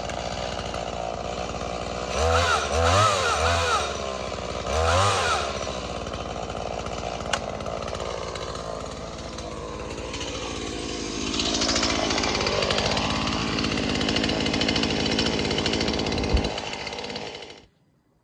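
Stihl gas chainsaw running steadily, revved in short bursts about two and five seconds in. It gets louder again from about eleven seconds, with the engine pitch dipping and climbing, then cuts off abruptly near the end.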